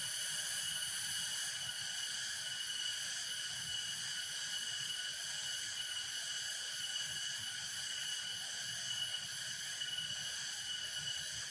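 Insect chorus, a steady high-pitched trilling that holds unchanged throughout.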